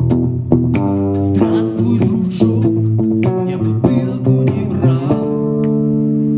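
Rock band playing guitar and bass: a run of picked notes, then a chord struck about five seconds in and left ringing.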